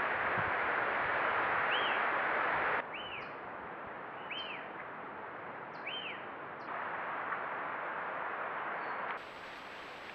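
A small bird calling a short arched chirp again and again, about every one to two seconds, over a steady outdoor hiss. Near the end the hiss changes to a fainter one with a thin steady high tone.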